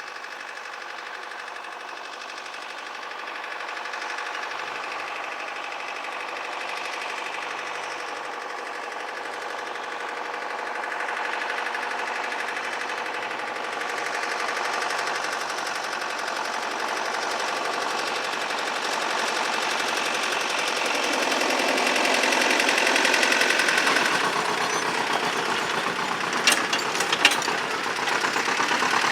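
Tractor diesel engine running with a knocking beat, getting louder as it comes closer and easing slightly after its loudest point. A few sharp clicks near the end.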